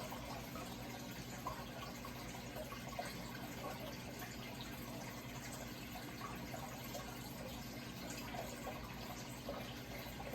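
Steady running, trickling water with small bubbling blips, over a low steady hum.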